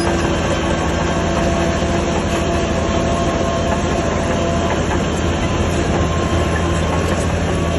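Heavy diesel engine of earthmoving machinery running steadily under a constant low drone.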